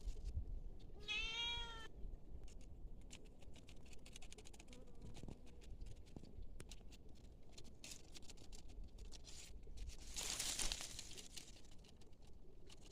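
A single short animal call about a second in, rising then falling in pitch. It is followed by scattered light clicks and rustling, with a louder rustle near the end.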